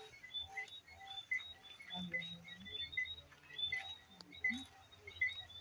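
Short, high chirps repeated a few times a second from small evening creatures calling.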